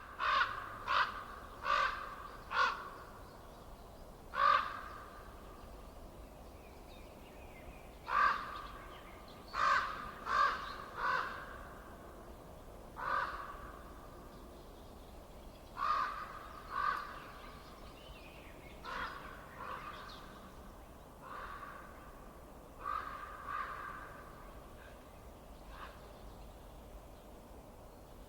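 A bird giving short, harsh calls, one to four in a row about a second apart with pauses between the runs, over a faint steady background hiss.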